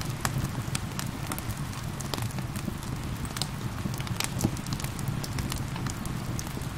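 Wood fire crackling and popping with irregular sharp snaps, over a steady bed of gentle rain.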